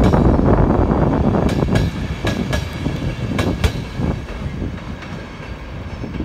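Electric InterCity 225 train of Mark 4 coaches rolling out of the station, a steady rumble with wheels clicking over rail joints, mostly in pairs. The sound fades after about four seconds as the Class 91 locomotive at the rear passes and the train draws away.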